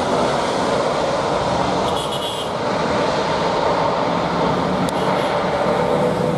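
Jet airliner engines, a loud, steady rush of engine noise with a faint whine.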